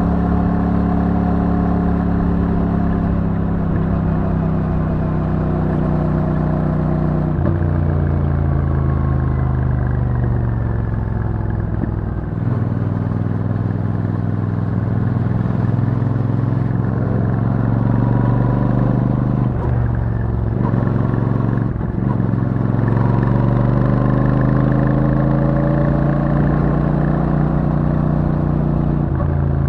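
Royal Enfield Super Meteor 650's 648 cc parallel-twin engine through its stock exhaust, pulling at low revs while riding. The note drops a couple of times, then rises steadily over the last several seconds.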